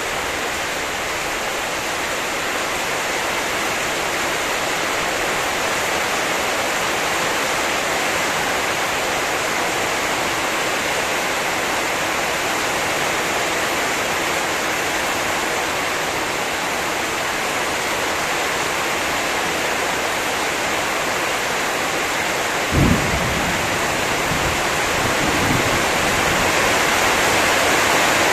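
Heavy rain falling steadily, a dense even hiss. About three-quarters of the way through comes one short low thump, followed by a couple of fainter ones.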